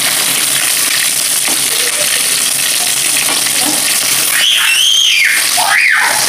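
Fish pieces sizzling in hot oil in a wok, with a steady hiss, while a metal spatula stirs and turns them.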